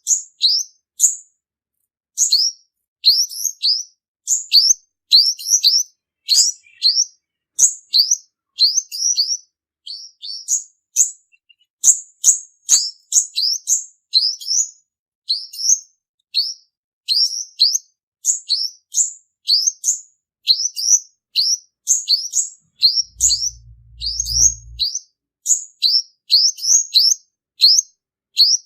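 Male sunbird singing: rapid, high, thin chirps that each drop quickly in pitch, delivered in tight clusters of two to four, over and over without pause.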